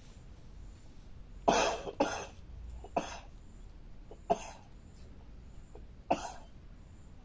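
A person coughing five times: two coughs close together, then three more spaced a second or two apart.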